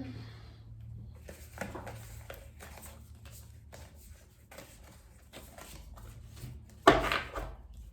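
Tarot cards being handled on a table: soft rustles and light taps, with one louder slap or knock about seven seconds in, over a faint steady hum.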